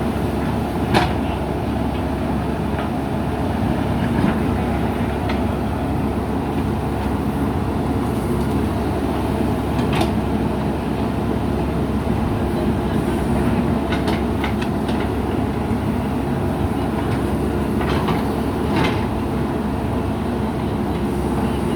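Diesel engine of a JCB backhoe loader running steadily at working revs, with a few sharp knocks scattered through.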